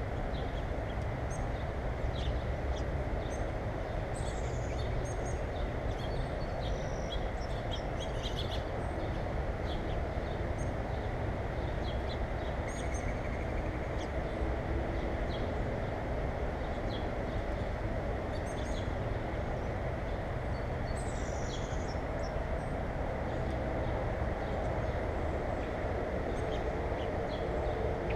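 Small birds giving brief high chirps, some sliding down in pitch, scattered irregularly. Under them runs a steady low rumbling background noise.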